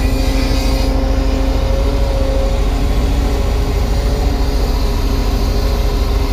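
Kubota U35-3 mini excavator's diesel engine running steadily with a heavy low rumble while the machine digs. A steady whine rides over it and fades about two seconds in.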